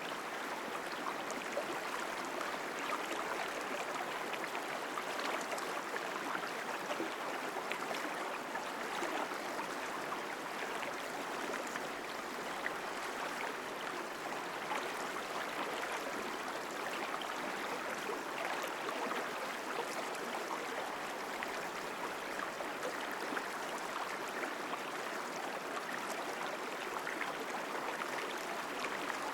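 Mountain stream flowing strongly over rocks: a steady rushing and splashing of water.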